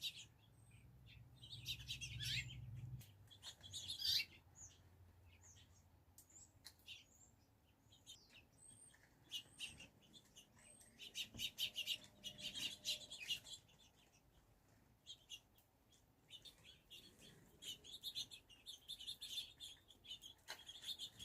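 Starlings and sparrows chirping and chattering in short bursts, with a few brief high whistles.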